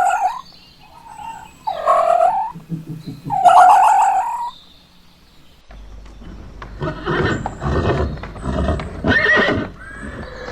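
Whinnying calls of a horse-like animal: three drawn-out pitched calls in the first half. After an abrupt change about halfway through, a rougher run of calls follows over a low hum.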